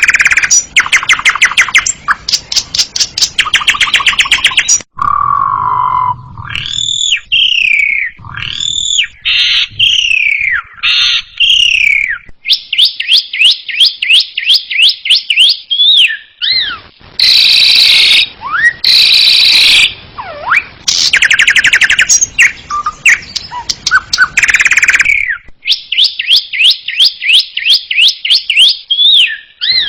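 Asian pied starling (jalak suren) singing a loud, varied song: fast rattling trills, whistled notes that glide up and down, and harsh chattering bursts, the phrases changing every few seconds.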